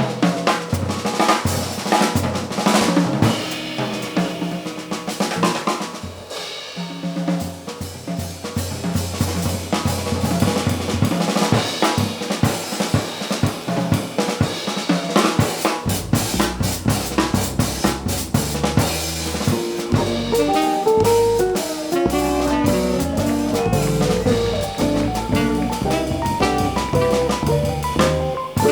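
Jazz drum kit solo on snare, bass drum and cymbals. About sixteen seconds in, a bass line comes in under the drums, and a few seconds later other instruments rejoin with melodic lines as the band returns.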